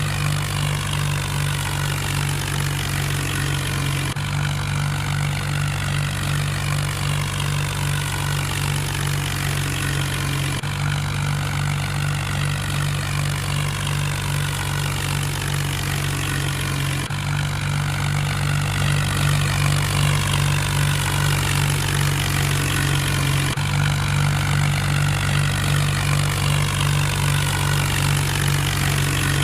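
Mahindra tractor engine running steadily with a constant deep hum, working at threshing wheat.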